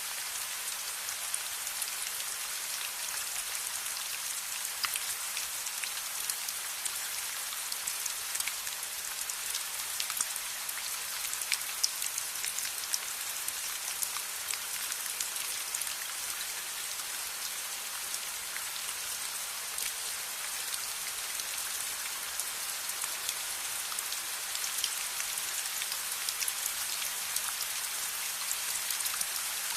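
Steady rain, an even hiss with many small sharp drop ticks scattered through it.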